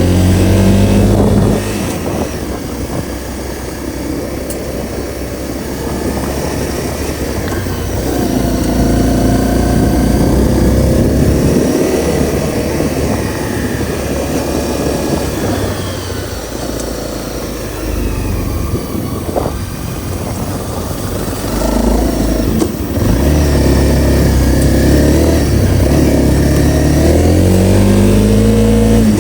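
Honda CRF250L's single-cylinder engine under way, its pitch rising and falling as the rider works the throttle and changes gear. It runs hardest in the first second or two and again over the last several seconds, lighter in between.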